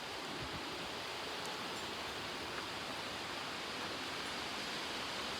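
Heavy thunderstorm rain falling steadily, an even hiss that does not let up.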